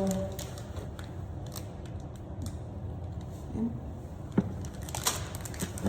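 Scattered light clicks and rattles of plastic Lego parts being handled, with one sharper click about four and a half seconds in.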